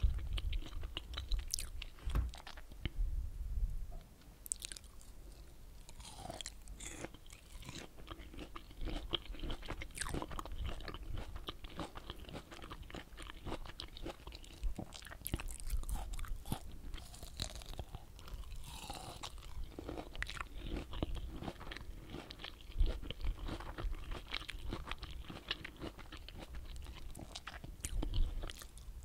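Close-miked chewing and biting of pomelo flesh: irregular wet crunching and mouth clicks.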